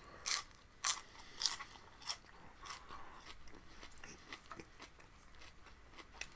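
Close-up crunching and chewing of raw vegetables: sharp crisp bites about every half second for the first two seconds, then softer, steady chewing.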